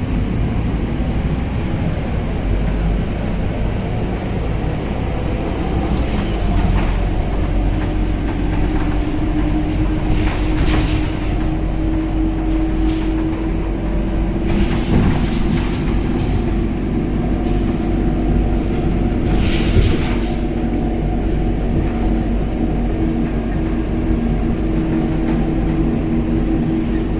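Interior of a moving Scania K270UB city bus: steady engine and road rumble with a droning tone. A faint high whine runs for the first few seconds, and short bursts of hissing noise come about ten, fifteen and twenty seconds in.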